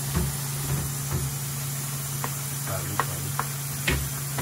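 Meat and onions sizzling in oil on a griddle, with about six short knocks and a steady low hum underneath.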